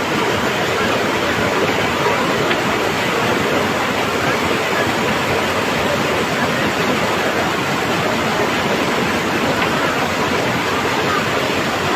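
A river swollen by floodwater rushing past in a steady, loud roar of water.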